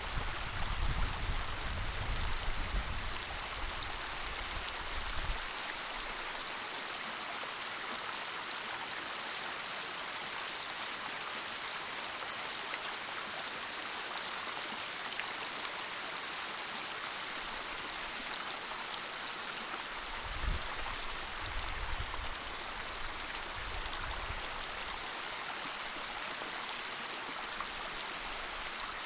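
Waterfall: a steady rush of falling water. A deep rumble comes and goes in the first few seconds and again about two-thirds of the way through.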